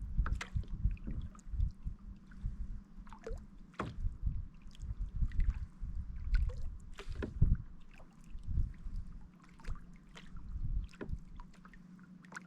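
Kayak on the water: irregular low knocks and thumps with water sloshing and lapping against the hull.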